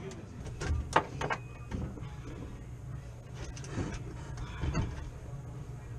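Hand work in an HVAC unit's electrical compartment: scattered sharp clicks and knocks of tools, wires and metal parts being handled, the loudest about a second in, over a steady low hum.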